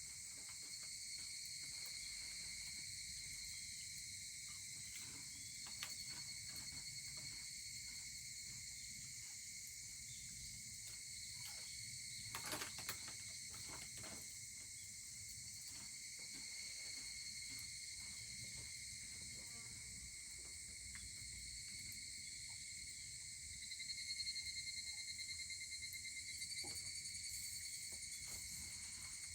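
Evening insect chorus of steady, high-pitched trilling, over the quiet crackle and occasional pops of a wood fire, with a small burst of pops about halfway through. Near the end a pulsing insect call, likely a higurashi cicada, comes in louder.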